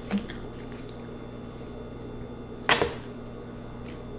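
A fortune cookie being opened: one short, sharp crackle about two and a half seconds in, with a faint click near the start. A steady low hum runs underneath.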